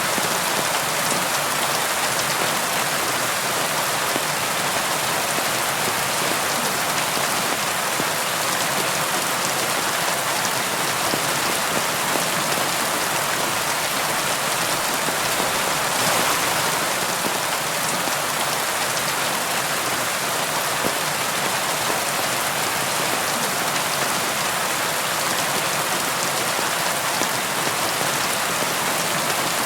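Steady rainfall on a surface, a dense, even patter of drops without let-up.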